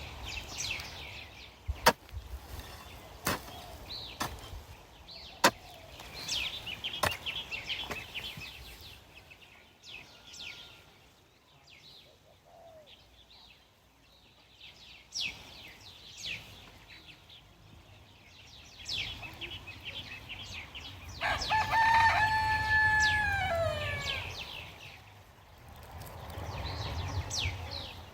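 A rooster crowing once, a long call about three-quarters of the way through that holds its pitch and then falls away at the end; this is the loudest sound. Before it come sharp knocks about once a second and high, thin chirps from small birds.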